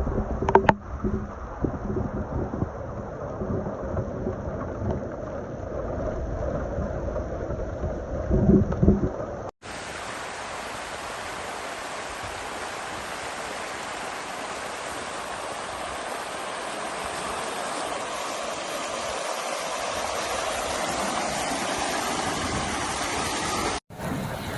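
Heavy rain falling. Over the first half it is a rough, rumbling wash with two short louder bursts; after a sudden cut about ten seconds in, it becomes an even, steady hiss that swells slightly.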